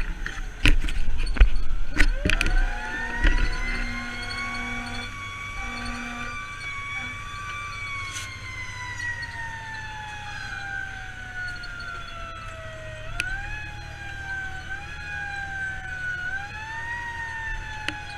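Fire engine's siren winding up from low to a high wail, holding, then sliding slowly down and swinging up and down in shorter sweeps, over the rumble of the truck's engine. A few loud knocks come in the first few seconds, before the siren starts.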